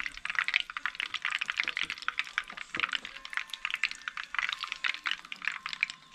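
Chicken frying in oil in a pan: a continuous sizzle thick with small crackling pops.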